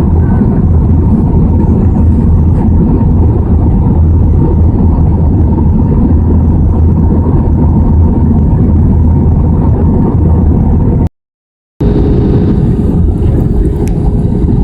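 Airbus A320 cabin noise: a steady, loud din of engine and airflow. About eleven seconds in it breaks off for a moment at a cut, then resumes as a similar steady hum with a single tone in it.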